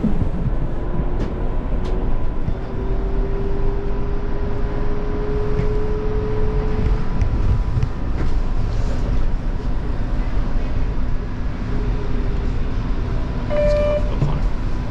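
Inside an Alstom Citadis Spirit light-rail car in motion: steady rumble of the wheels on the track, with the traction motors' whine rising in pitch over the first several seconds. A short beep sounds near the end.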